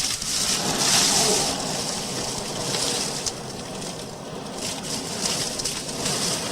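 Blizzard wind gusting, with wind-driven snow hitting the house, heard from indoors: a rushing hiss that swells about a second in, eases off in the middle and picks up again.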